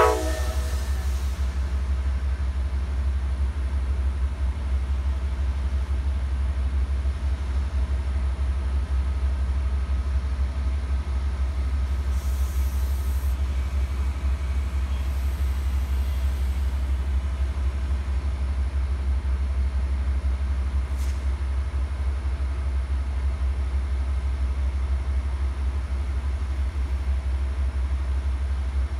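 Amtrak train standing at the station, its diesel locomotives idling with a steady low rumble. A brief squeal of the wheels or brakes dies out at the very start.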